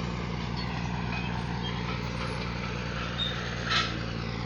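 An engine running steadily with a low hum, with one brief sharp noise about three-quarters of the way through.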